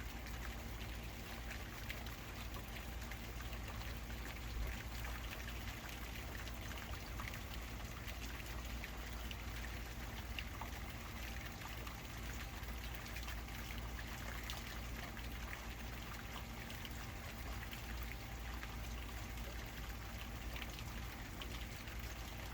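Steady rain falling during a thunderstorm, a constant wash with the patter of individual drops, over a steady low hum.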